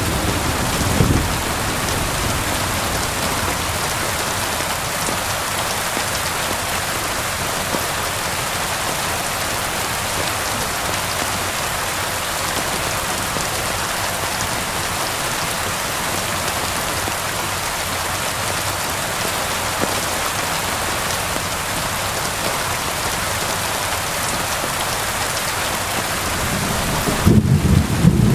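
Steady rain falling, an even hiss. A low rumble of thunder fades out about a second in and rolls back in near the end.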